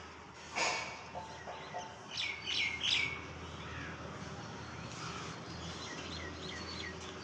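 Small birds chirping: a quick run of short falling chirps two to three seconds in and a softer run near six seconds, over a steady low hum. A short sharp noise sounds just over half a second in.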